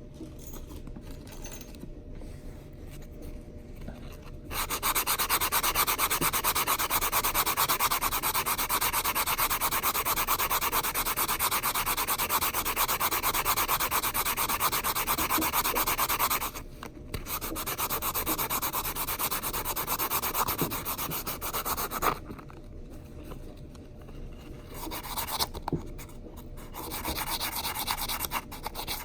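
Metal coin ring edge being sanded by hand on a nail file board: a steady rasping rub that starts about four seconds in, runs for some fifteen seconds with a brief break, then comes back in shorter bouts near the end.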